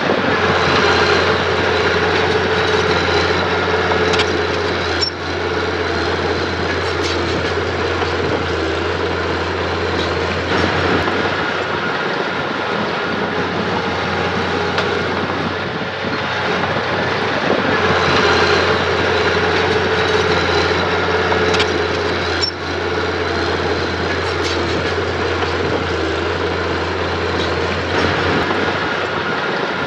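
Diesel engine of earthmoving machinery running steadily under load, swelling and easing every few seconds, with an occasional sharp metallic click.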